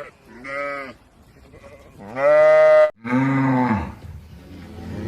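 Bleating from a sheep or goat type farm animal: three calls, a short one early on, a long loud bleat about two seconds in, and a lower, deeper call straight after it.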